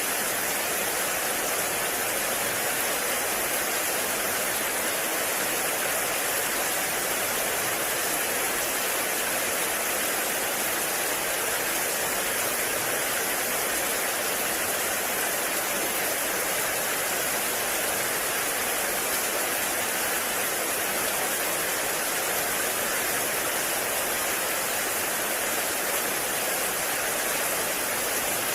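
Heavy rain falling steadily in a forest, an even hiss with no breaks or separate drops standing out.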